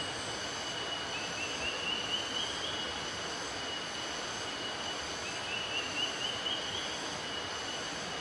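Forest ambience: the steady rush of a river, with a constant high-pitched insect drone over it. A bird sings a short run of rising notes twice.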